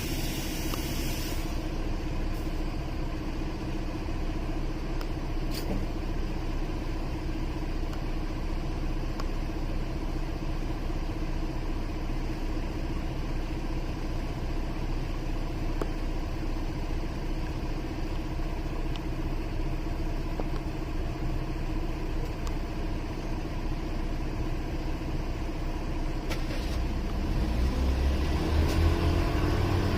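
Motorcycle engine idling steadily, then revving up with a rising pitch near the end as the bike pulls away.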